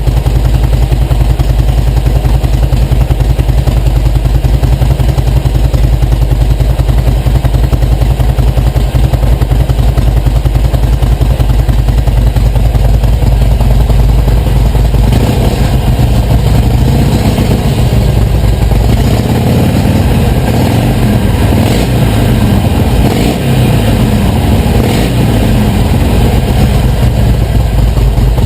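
Harley-Davidson Iron 883's air-cooled V-twin idling through stock mufflers with their internal plugs opened up, then revved a few times from about halfway. The exhaust has a deeper tone than stock: not loud, but a nice deep sound.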